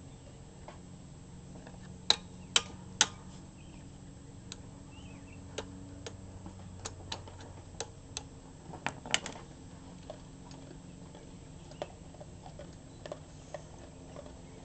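Scattered sharp clicks and knocks over a faint steady hum: three loud ones about two to three seconds in, then a run of lighter ticks and taps, thinning out toward the end.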